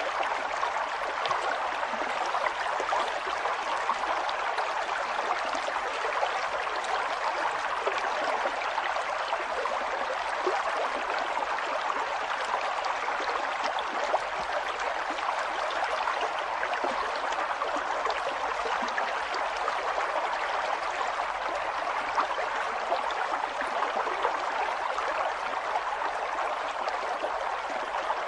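A river flowing over rocks: a steady rush of running water with small splashes and gurgles throughout.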